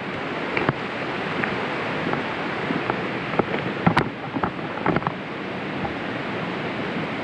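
Steady rushing noise of wind and running water in the forest, with scattered sharp snaps and knocks; the loudest snap comes about four seconds in.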